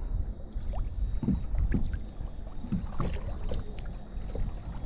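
Small, irregular water splashes and light knocks around a kayak, over a steady low rumble.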